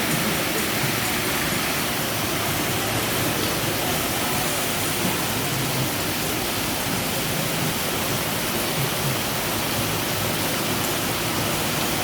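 Rain falling steadily, a dense even hiss that does not let up.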